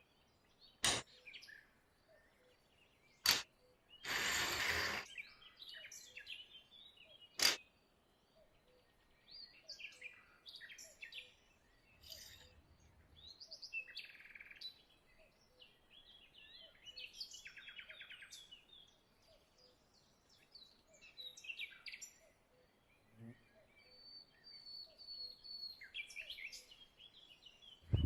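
Birds chirping throughout, broken by three sharp clicks and a brief hiss lasting about a second, a few seconds in.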